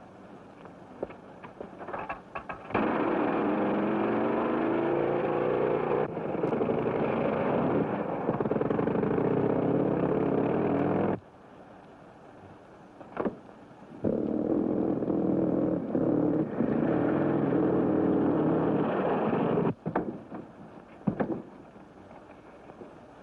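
Vehicle engine running loudly in two long stretches, each starting and cutting off abruptly, with a few sharp knocks in the quieter gaps between them.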